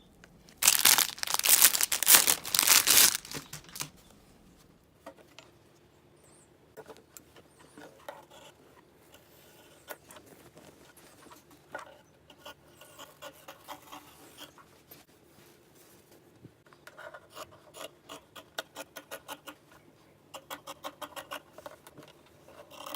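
Fabric, most likely the faux-fur scarf being pulled apart, tearing loudly for about two and a half seconds near the start. Then quieter rustling and handling, with two runs of quick, evenly spaced clicks in the second half.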